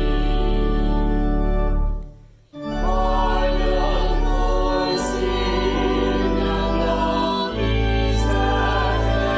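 Hymn music: an organ holding sustained chords over a steady bass, with singing voices. There is a short break about two seconds in before the next phrase, and the chords change every two or three seconds after that.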